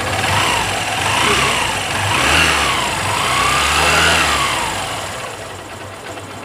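Honda Shine 125 single-cylinder engine revved up and down three times, then settling back to a steady idle. No timing chain tang-tang rattle is heard at high or low revs, now that the cam chain tensioner's spring pressure has been increased.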